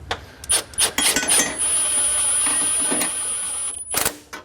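A cordless power tool blipped on a few times in quick succession, then run steadily for about two and a half seconds with a high motor whine before it stops suddenly, followed by a couple of sharp metallic knocks.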